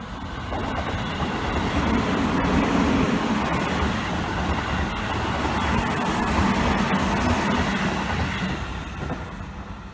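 Seibu 20000 series electric commuter train running past close by, a steady rumble of wheels on rails with a couple of sharp clicks. The sound builds over the first two seconds, holds, and eases off near the end.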